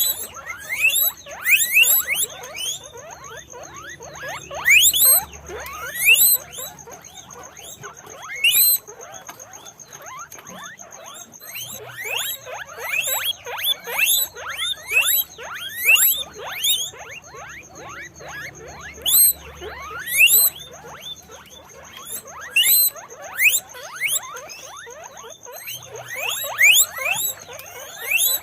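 Guinea pigs squeaking: many short, rising squeals that overlap and come in clusters about every second, with a faint steady high tone underneath.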